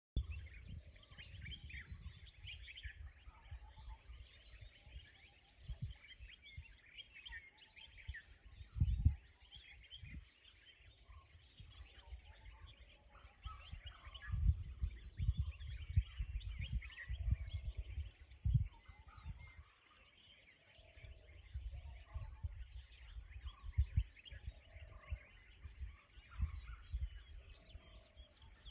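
Birds chirping continuously, with irregular low rumbling gusts of wind on the microphone; the strongest gust comes about nine seconds in.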